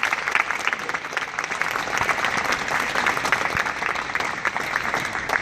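Audience applauding: a steady, fairly loud mass of hand claps from many people.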